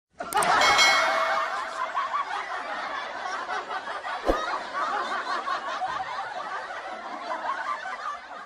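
Crowd laughter sound effect: many people laughing at once, starting abruptly, loudest in the first second, then slowly dying down, with a single sharp click about four seconds in.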